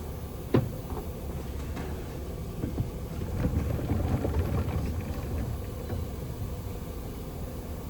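Objects being handled and set down, a sharp knock about half a second in and then light clattering, over a low steady rumble.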